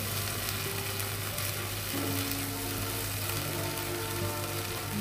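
Onion and garlic paste sizzling steadily in hot mustard oil in a kadai on medium-high heat, scraped and stirred with a spatula. Faint held musical tones sound under the sizzle, more of them from about two seconds in.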